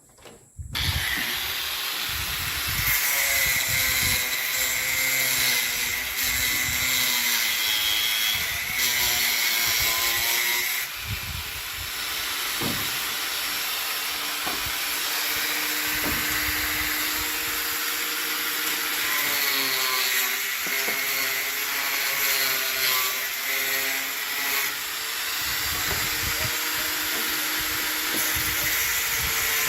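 Handheld electric power tool running under load, its motor pitch dipping and recovering as it bites into the work, as in cutting or drilling. It starts about a second in and keeps going with a short dip near the middle.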